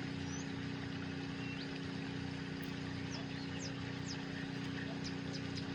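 Steady background hum with a constant low tone, and a few faint, short high chirps scattered through.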